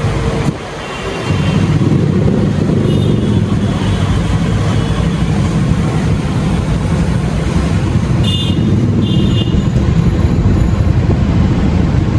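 Motorcycle engine running steadily among road traffic, starting loud after a brief lull about a second in.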